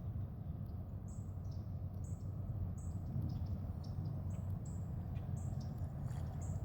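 Small bird giving short, high, repeated chirps, irregularly one or two a second, over a steady low rumble.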